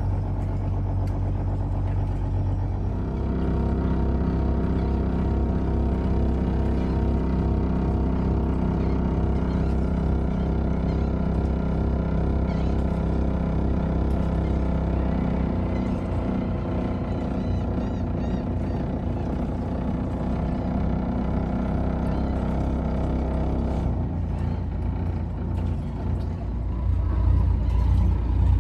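An old trawler's diesel engine running steadily while the boat is manoeuvred out of its slip. Its pitch shifts a few times, about 3 seconds in, around the middle and again near the end, as the throttle or gear is changed.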